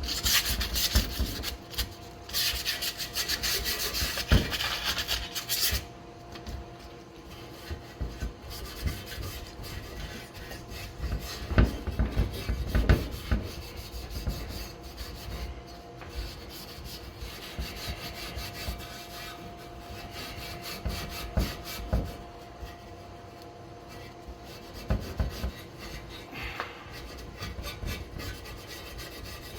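Hand scrubbing of a metal scooter part with a Scotch-Brite abrasive pad to take off grime and surface rust: rapid back-and-forth rasping strokes, loudest for the first six seconds, then lighter, with a few sharp knocks as the part or tool is handled.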